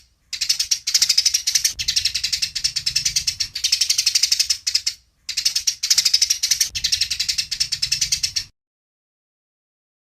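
Eurasian tree sparrows chirping in fast, excited strings of sharp chirps, as in a sparrow squabble, in three bursts with brief pauses. The chirping stops about a second and a half before the end.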